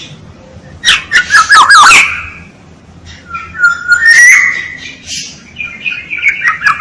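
Oriole calling: groups of fluty whistled notes mixed with harsh, scratchy calls. One group comes about a second in, another at three to four seconds, and a third near the end.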